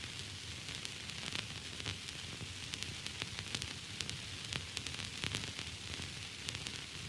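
Steady hiss of static with frequent irregular crackling clicks.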